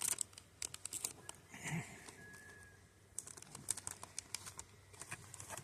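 Crinkly plastic chip bag being handled, giving irregular sharp crackling clicks.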